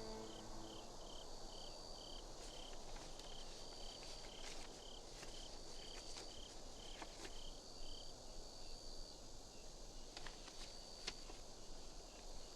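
Crickets chirping faintly in an even rhythm of about three chirps a second, with longer, higher trills that come and go and a few faint clicks.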